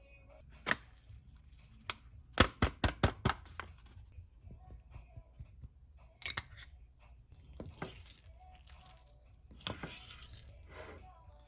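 Sharp clicks and taps of things being handled, with a quick run of about five clicks some two and a half seconds in and fainter rustling between.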